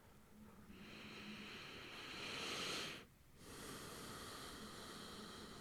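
A man breathing slowly and audibly. One long breath swells and stops about three seconds in, and after a brief gap a second long breath follows.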